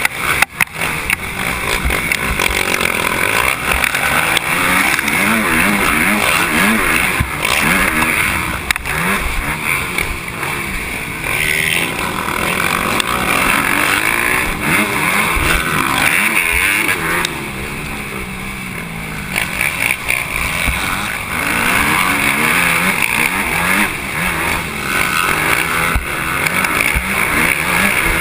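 Motocross motorcycle engine revving up and down repeatedly under hard riding, its pitch rising and falling with the throttle and gear changes. It eases off briefly a little past the middle.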